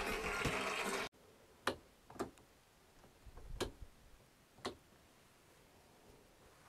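A few sharp, separate clicks against a quiet background, four of them at uneven intervals over about three seconds. They follow a louder, busier stretch that cuts off abruptly about a second in.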